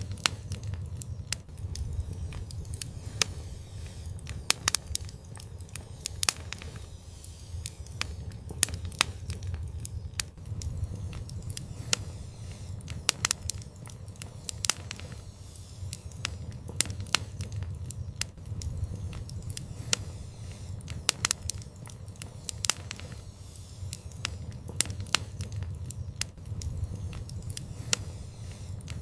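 Fire crackling, with irregular sharp pops and snaps, sometimes several in quick succession, over a low steady rumble.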